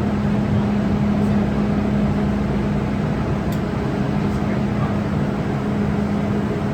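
Steady hum from an MTR M-Train, an even noise with a constant low tone and no change in pitch.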